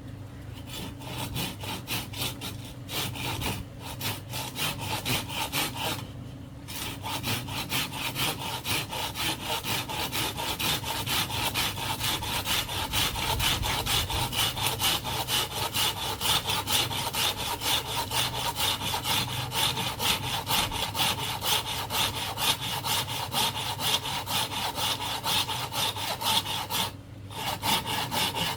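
Hand saw cutting bamboo in steady, rhythmic back-and-forth strokes, with a few short pauses early on and one near the end.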